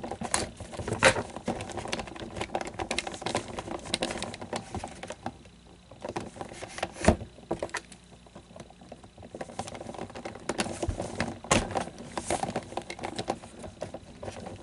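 A blade scraping and prying at glued plastic parts of an animatronic figure, cutting the glue. It makes irregular clicks, scratches and small knocks, with a few sharper snaps about a second in, around seven seconds and near eleven and a half seconds.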